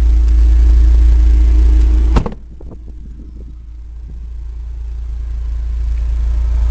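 A vehicle's rear door shut with one sharp bang about two seconds in, followed by a few light clicks. Beneath it a steady low rumble drops away at the bang and slowly builds back.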